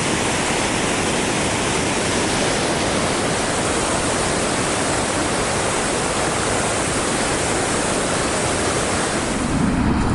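A waterfall in full flow, rushing steadily close by.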